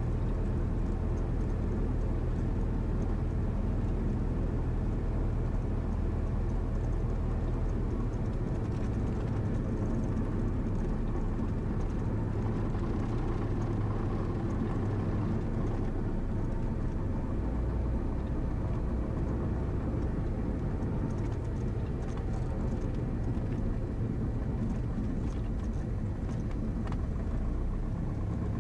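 Cessna 172's four-cylinder piston engine running at low power while the plane taxis, a steady drone whose pitch shifts a couple of times.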